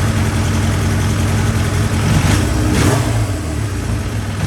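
Motorcycle engine running just after being restarted. Its speed swings up and down a couple of times in the middle, on a bike the owner believes has a vacuum leak.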